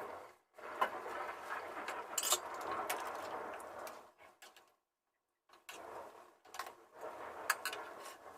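Kitchen cooking sounds: a utensil clinking and scraping against a pot over a steady noisy hiss, cut off abruptly for about half a second midway.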